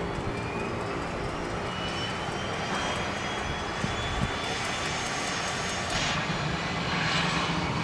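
Cessna 208B Super Cargomaster's single turboprop engine running, a steady rumble under a high turbine whine that rises slowly in pitch.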